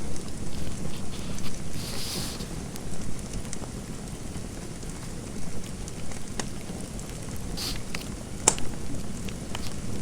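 Fireplace fire crackling, with scattered sharp pops over a low steady rumble; the loudest snap comes near the end. A few brief scratchy strokes of writing can be heard among them.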